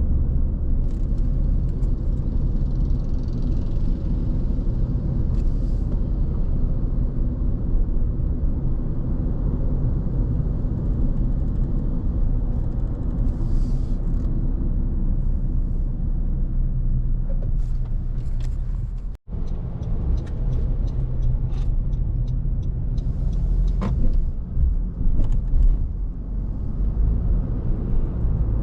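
Car driving on the road: a steady low rumble of tyre and engine noise. About two-thirds of the way through the sound cuts out for an instant, and a run of light clicks follows in the last third.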